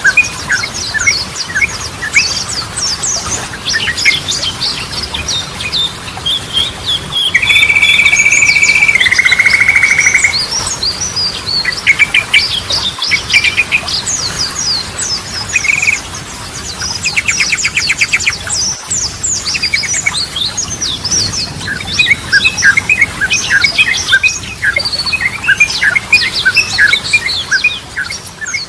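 Yellow-vented bulbul singing a rapid, continuous string of short chirps and whistled notes. About a third of the way in comes one long, loud, steady buzzy note that steps down to a lower pitch, and a little past the middle a fast rattling trill.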